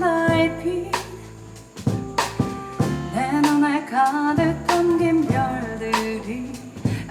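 Live jazz band playing: piano, double bass and drums, with pitched piano and bass lines under regular drum and cymbal strikes.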